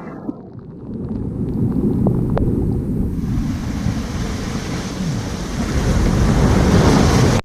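Ocean waves breaking and surging, with wind buffeting the microphone; the rush of water grows brighter and louder from about three seconds in.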